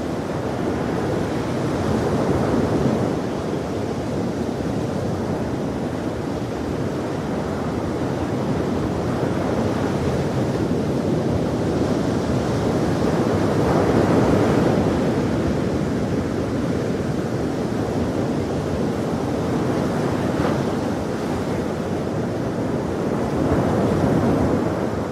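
Ocean waves breaking and washing on a shore, a continuous rush that swells gently every several seconds.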